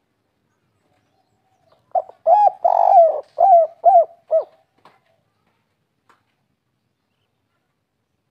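Spotted dove (tekukur) cooing one phrase, about two seconds in: a short note, a longer rolling coo, then three short coos, the 'kuk 3' call type. The phrase lasts about two and a half seconds.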